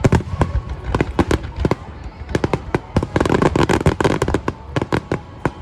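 Aerial fireworks going off in quick succession: many sharp bangs a second, with a dense stretch of crackling in the middle.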